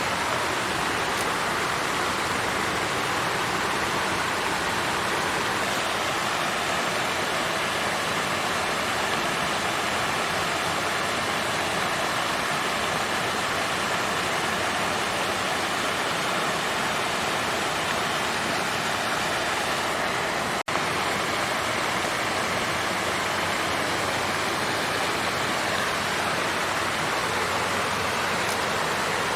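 Water fountain flowing steadily, an even rush of falling and splashing water, broken by a split-second dropout about two-thirds of the way through.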